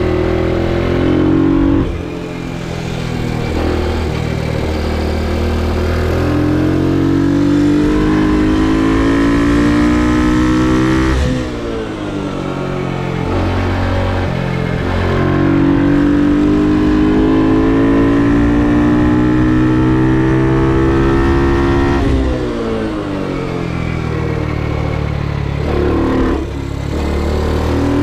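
Ohvale GP2 mini motorcycle's single-cylinder four-stroke engine, heard onboard as the bike laps a track. It revs up in long pulls under acceleration, and the engine note drops sharply when the rider shuts the throttle for corners, about twice in the middle and again near the end.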